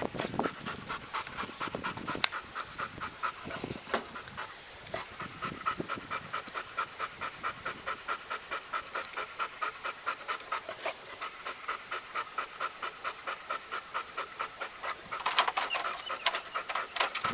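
Retriever dog panting hard and rapidly, about four breaths a second, louder for a moment near the end.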